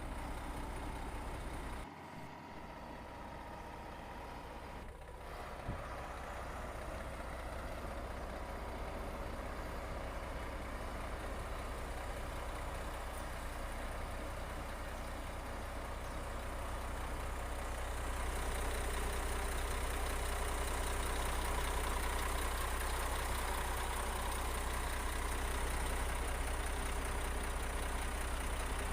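Diesel engine of heavy earth-moving machinery running steadily with a low drone. It dips briefly about two seconds in and grows louder about two-thirds of the way through.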